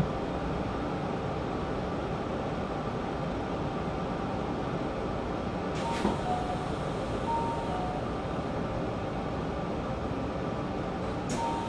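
Steady train noise heard from inside a Hanshin 5500 series electric railcar. A sharp click comes about halfway through and another near the end, and after the first click a faint high-then-low two-note tone repeats a few times.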